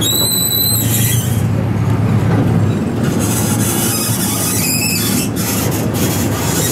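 Small open-car park train rolling along its track with a steady low rumble, its wheels squealing briefly twice: once at the start and again about five seconds in.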